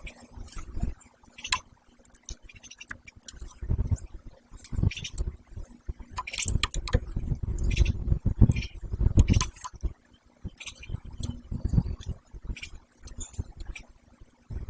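Pileated woodpeckers pecking and knocking at close range: irregular sharp taps and clicks mixed with dull thumps, busiest in the middle stretch.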